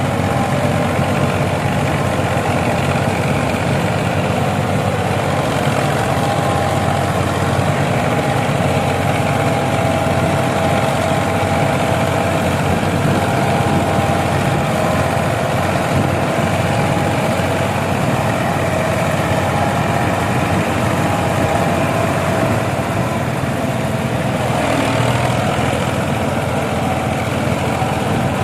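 Ford tractor engine running steadily, a constant drone that barely changes.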